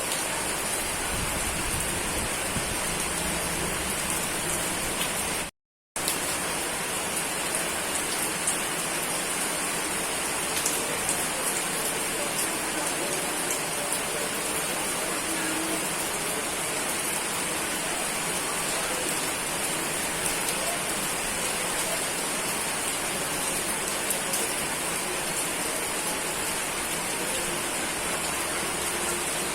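Steady heavy rain falling in a dense even hiss, with scattered faint drop ticks. The sound cuts out completely for about half a second around six seconds in, then resumes.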